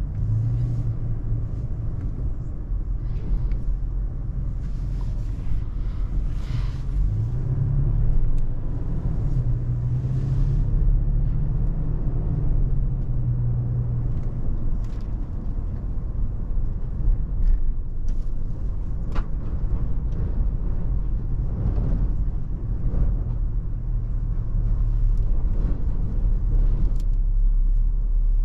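Toyota FJ Cruiser's V6 engine and tyres giving a steady low rumble while driving, with wind noise over it. The engine note rises and wavers from about seven seconds in, then settles.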